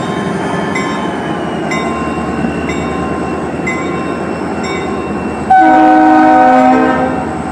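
Norfolk Southern freight train passing, with a steady rumble and regular light clicks of the wheels. About five and a half seconds in, the locomotive's multi-chime air horn sounds one loud blast of about a second and a half.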